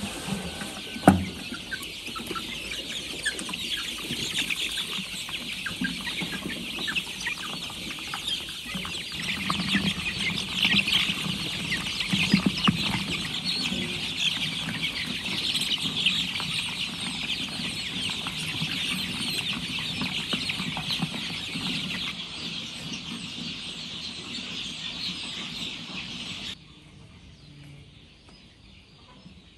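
A flock of chickens clucking, a dense, steady chatter of many overlapping calls. There is one sharp knock about a second in, and the chatter cuts off suddenly near the end.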